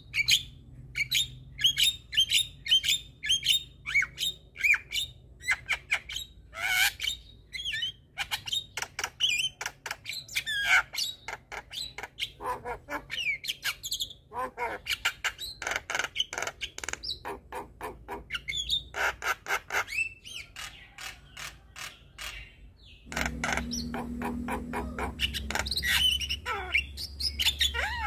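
Javan myna calling in a rapid run of short chirps, clear whistles and harsh squawky notes. A steady low hum comes in sharply about three-quarters of the way through.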